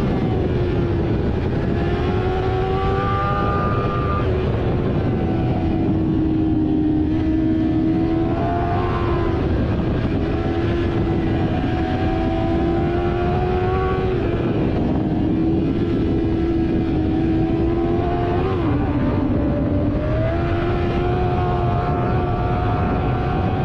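Motorcycle engine running at a steady road speed under heavy wind noise. Its note drifts gently up and down and dips briefly about three-quarters of the way through.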